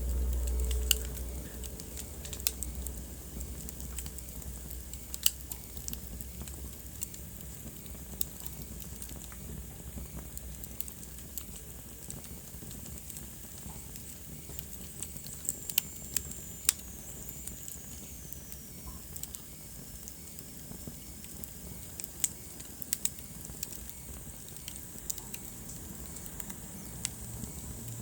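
Wood fire in a fireplace crackling, with scattered sharp pops over a soft steady hiss. A low rumble sounds in the first second or two, and about halfway through a thin high whistle slowly falls in pitch.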